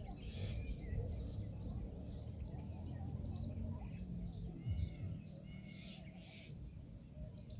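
Many short, high chirps from birds, over a steady low background rumble.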